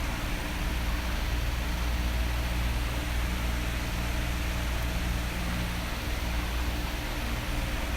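Electric fan blowing: a steady rush of air over a low motor hum, starting to grow louder near the end.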